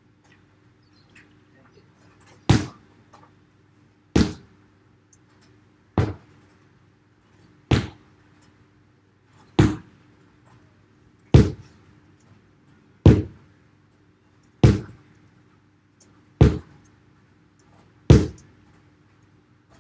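Sledgehammer striking a tyre ten times in a steady rhythm, one heavy thud about every two seconds.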